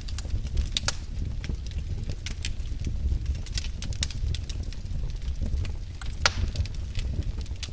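Wood fire burning in a fireplace with a low steady rumble of flames and scattered sharp crackles and pops from the burning logs, the loudest pop about six seconds in.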